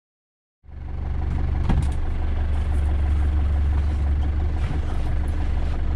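A vehicle engine idling with a steady low drone, heard from inside the cab. It comes in after a brief silence, and there is a light knock about a second later.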